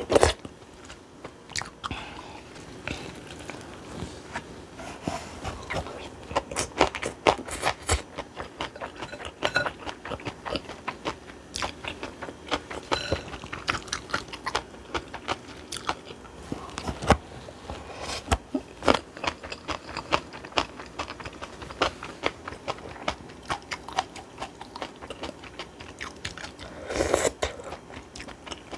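Close-up eating sounds: a person chewing and crunching a mouthful of bibimbap with crisp aged cucumber (nogak), with many short sharp smacks and clicks at an uneven pace. A louder sound lasting about a second comes near the end.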